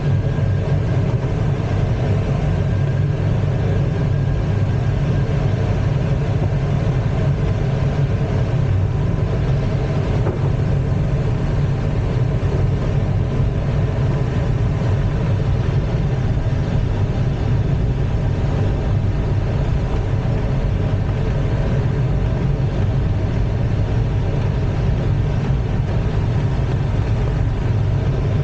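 Steady rush of airflow inside the cockpit of an ASK-21 two-seat glider in flight: a loud low rumble with a faint steady whistle and no engine.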